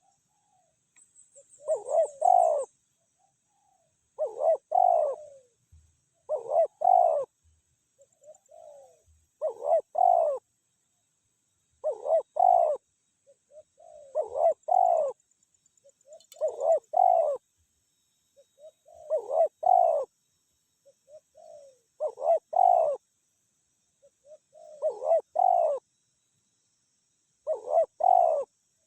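Spotted dove cooing over and over: each phrase is a soft lead-in note followed by a loud two- or three-part coo, repeated about every two and a half seconds.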